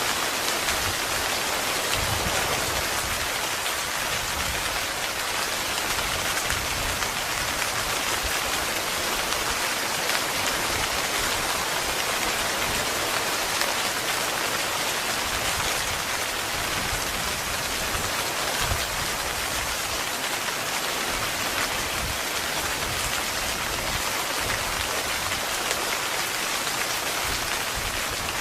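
Heavy, steady rain pattering on tent fabric, an even hiss of many drops with no break and no thunder.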